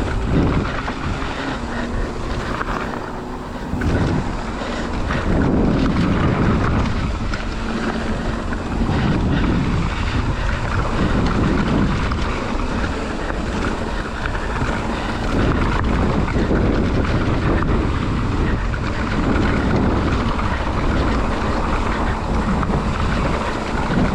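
Wind rushing over the camera microphone and mountain-bike tyres rolling over the trail on a descent, a steady noise that swells and eases unevenly.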